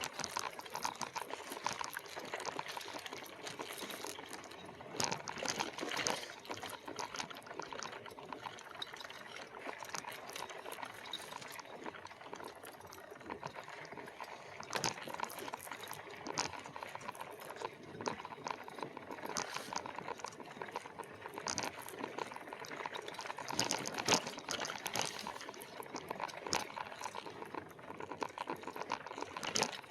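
Dense, irregular clicking and rattling of an e-bike and its load jolting over a rough trail as it is pedalled, with ice clinking and water sloshing in a container.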